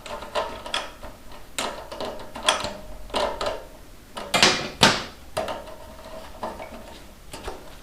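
Irregular metal clinks and clicks of a socket and ratchet being handled and worked on a motorcycle's fuel-tank mounting bolt.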